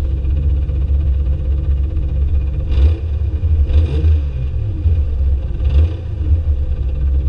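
Drift cars going past on the circuit, three brief passes about three, four and six seconds in with engine pitch sliding and a hiss of tyres, over a steady low rumble.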